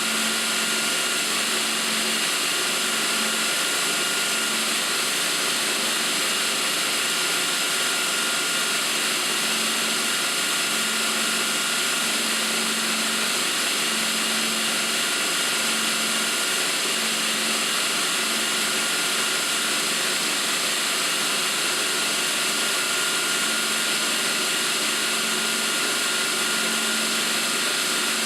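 Burr King belt grinder running with a 120-grit abrasive belt over its rubber-coated contact wheel while a drill bit is sharpened on it: a steady, even hiss with a constant whine, and a low hum that comes and goes.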